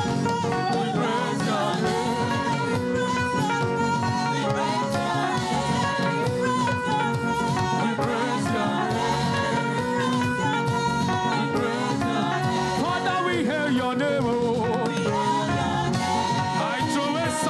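Church choir singing upbeat praise music with a live band, over a steady beat that carries on without a break.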